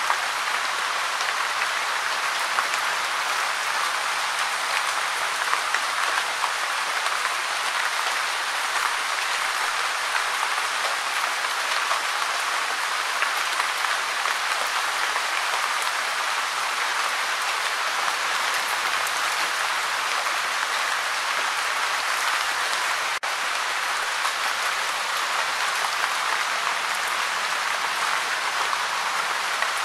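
Light, steady rain falling: an even hiss of many small drop impacts that holds the same level throughout.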